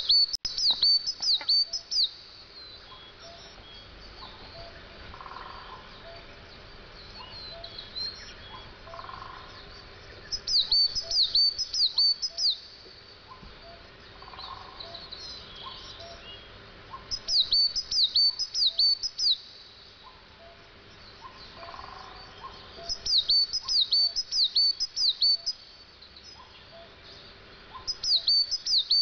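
A songbird singing: five phrases, each a quick run of about six to eight high, downward-sliding notes lasting a couple of seconds, repeated every five to ten seconds.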